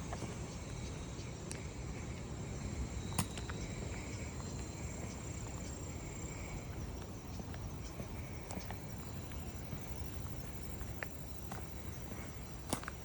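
Insects trilling steadily at a high pitch over a low outdoor rumble, with two sharp clicks, one about three seconds in and one near the end.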